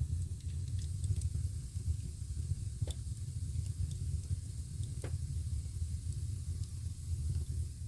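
Fire burning with a steady sizzling hiss and low rumble, with two sharp crackles; it cuts off suddenly near the end.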